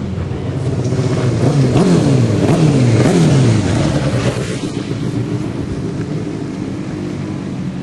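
Racing motorcycles going by on the track, their engine notes climbing and dropping through gear changes, loudest about two to three seconds in, then settling to a steadier drone.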